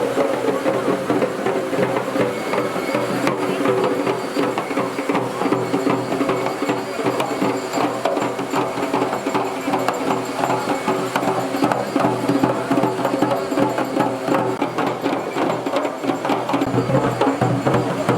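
Garhwali dhol and damau drums playing a fast, dense beat without a break, with steady pitched tones sounding over the drumming.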